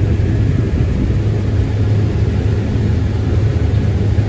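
Combine harvester running steadily while harvesting corn: a constant low drone that does not change.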